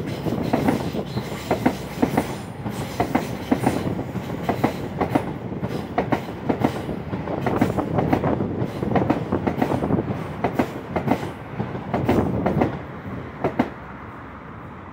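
LNER Azuma passenger train passing close beneath, its wheels clicking rapidly and unevenly over rail joints and points above a steady rolling rumble. The clicks die away about a second before the end as the last coach clears.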